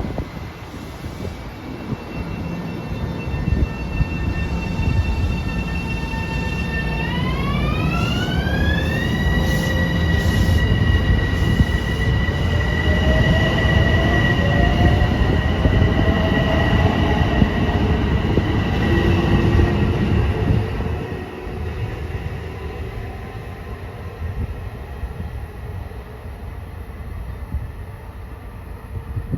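Long Island Rail Road train running through the station: a heavy rumble with a whine of several tones. About seven seconds in, the whine glides up in pitch, then holds, and it fades with the rumble about two-thirds of the way through.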